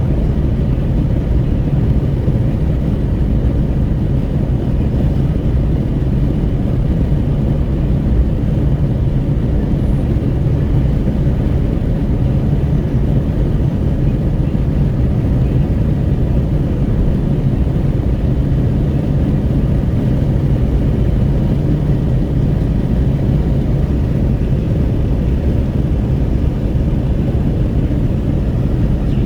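Steady low rumble of wind buffeting through an open window of a Renault Kwid 1.0 driving at highway speed, mixed with road noise.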